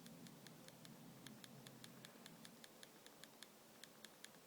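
Faint, rapid clicking of a BlackBerry's red end/power key being pressed over and over, about five to six clicks a second.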